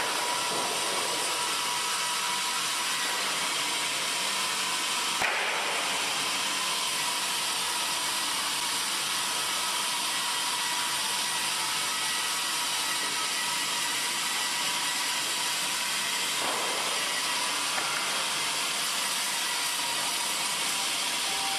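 Wood-processing machinery at a sawmill running with a steady, even, high hiss and a faint steady whine.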